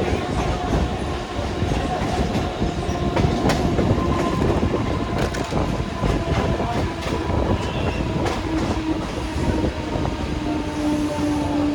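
Train running on the rails: a continuous rumble with scattered clacks of wheels over rail joints and faint steady tones.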